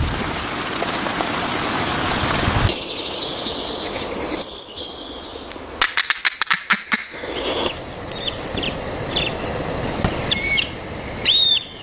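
Rain hiss for the first couple of seconds. Then a fast run of about ten sharp taps, like a woodpecker pecking, is followed by repeated short, high chirps from a woodpecker.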